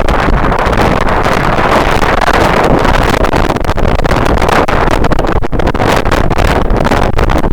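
Strong wind buffeting the microphone: a loud, continuous rush that flickers in level without letting up.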